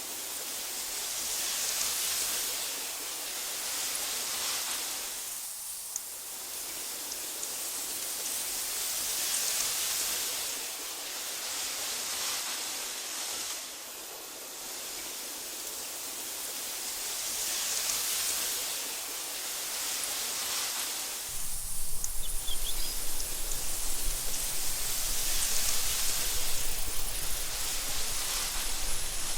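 Wind through tall meadow grass: a soft hiss that swells and fades in slow gusts every few seconds. About two-thirds of the way through, a low rumble comes in suddenly and stays under the hiss.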